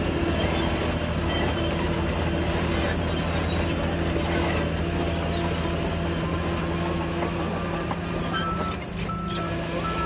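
Heavy diesel earthmoving machine running steadily under load with a metallic clatter of crawler tracks. Near the end a reversing alarm starts beeping at a steady pace.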